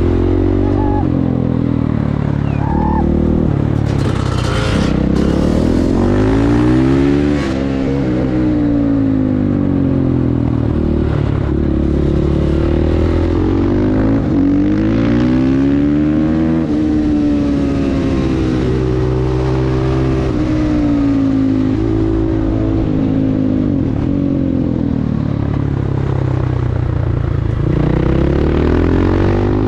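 Supermoto motorcycle engine under way, its pitch climbing as it accelerates and dropping as it slows, over and over.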